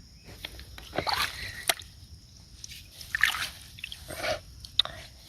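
Shallow water splashing and sloshing in a few short bursts, with a couple of sharp clicks between them.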